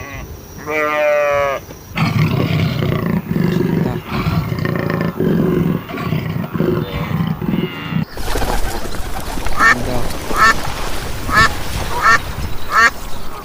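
A sheep bleats once at the start. Then comes a few seconds of rough, low animal sound from a cheetah. In the second half a duck quacks about five times, a little under a second apart.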